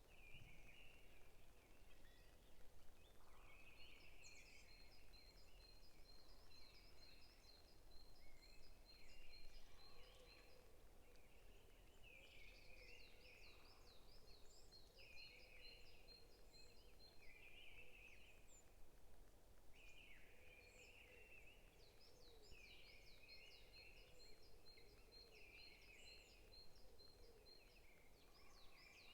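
Several songbirds singing faintly, overlapping: repeated chirping phrases, quick rapid trills and a fast run of evenly spaced high notes, over a soft steady background hiss.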